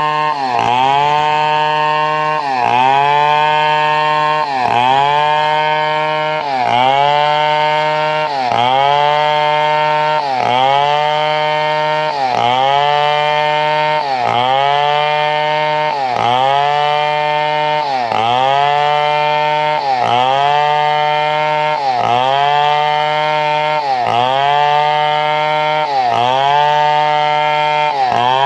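Chainsaw engine running hard while cutting wood, its pitch dipping and climbing back about every two seconds as the chain is loaded in the cut.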